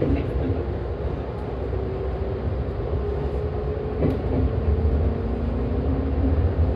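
Joetsu Line electric train running slowly under a strong-wind speed restriction, a steady low rumble with faint motor hum tones. A single sharp knock comes about four seconds in.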